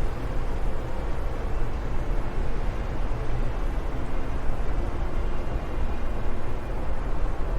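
Steady wind noise, a constant low rushing sound heaviest in the bass, with no distinct gusts or breaks.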